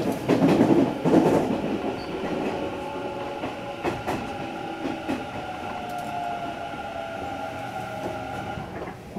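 Hanshin 1000 series electric train heard from inside the car as it slows into a station. Wheels clatter loudly over rail joints and points for the first second or so, then a steady motor whine runs over the running noise, which gradually gets quieter.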